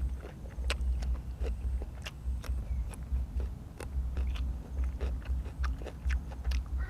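A person chewing and biting food close to the microphone, with many irregular sharp mouth clicks over a pulsing low rumble.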